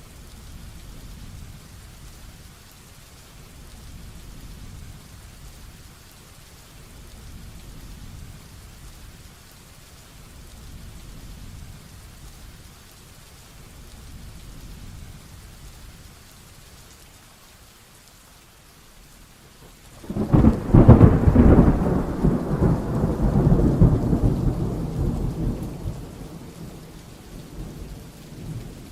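Steady heavy rain, then about two-thirds of the way through a sudden loud thunderclap that crashes and rumbles away over several seconds.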